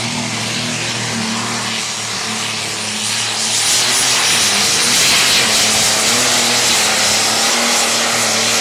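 Light modified pulling tractor engine running at full power during a pull, with a thin high whine over it. The noise grows louder about three seconds in.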